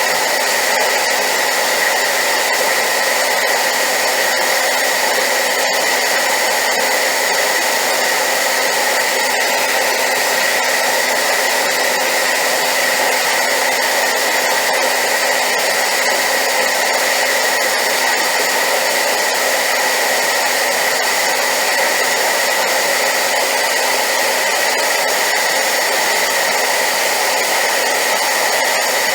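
Hair dryer running steadily on high power: a continuous loud rushing hiss with a constant high whine.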